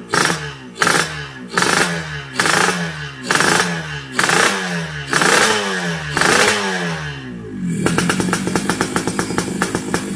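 Motorcycle with a short, side-bulging aftermarket GRM exhaust, revved in quick throttle blips about once a second, each rising and dropping back. About eight seconds in it settles into a fast, even idle putter.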